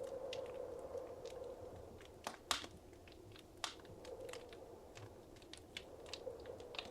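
Wood fire in a fireplace crackling: irregular sharp pops and snaps, the loudest pair about two and a half seconds in, over a soft steady background.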